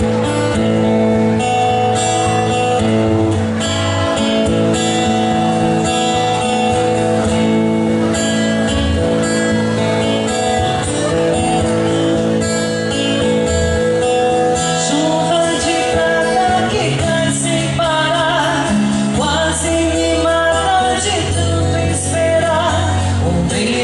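Live band playing a Brazilian pop song: sustained chords over a changing bass line, with a wavering melody line coming in about two-thirds of the way through.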